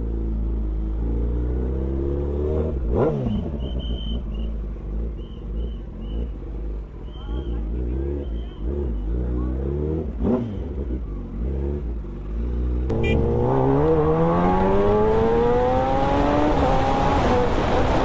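Vehicle engines at a motorsport event: a low, steady engine drone, brief engine sweeps about 3 and 10 seconds in, then a louder engine revving up and accelerating from about 13 seconds in.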